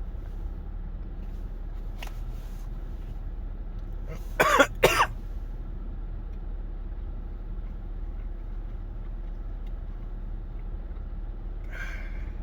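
A person gives two short coughs or throat-clears in quick succession, about four and a half seconds in, over a steady low hum.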